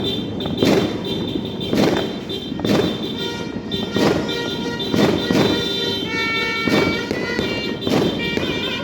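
New Year's fireworks going off over music, with a strong thump roughly once a second. Steady high musical notes come in about halfway through.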